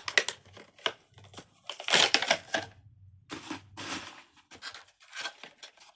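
Plastic pop tube fidget toys being stretched and squeezed: a series of short crackling, ratcheting bursts as the ribbed tubes pull out and push back, the loudest about two seconds in.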